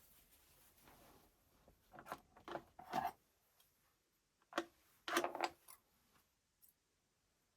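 Small hard metal parts clicking and clinking as they are handled, in two short clusters a couple of seconds apart, with a faint single tick near the end.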